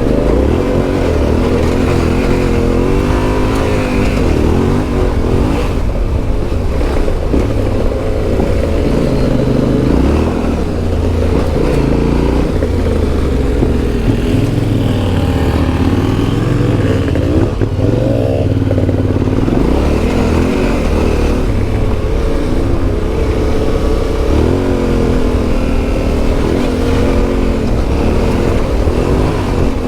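Yamaha Ténéré 700's CP2 689 cc parallel-twin engine with an Akrapovic exhaust, heard on board while riding, the revs rising and falling again and again as the throttle is opened and closed.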